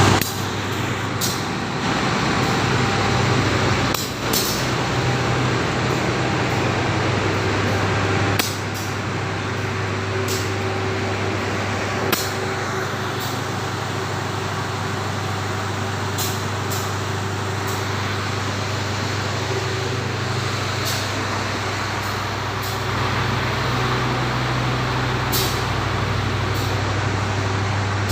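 Tawangjaya Premium diesel-hauled passenger train: a steady low engine hum with a noisy running sound over it and scattered brief high clicks.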